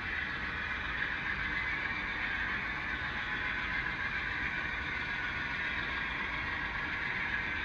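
HO scale model train running on the layout: a steady mechanical whir with no clear beat, its sound high and thin.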